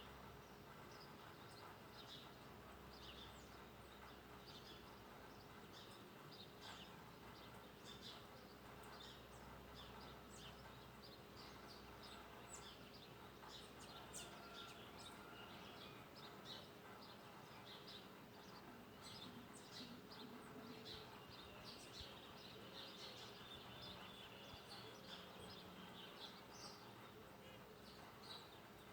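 Faint chorus of birds chirping outdoors, many short high notes scattered throughout over a quiet background hiss.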